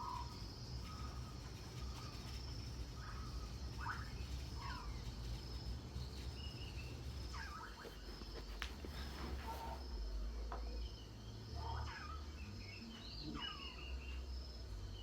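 Wild outdoor ambience: an insect trills in a steady, pulsing high tone, with scattered bird chirps and short whistled calls over a low rumble.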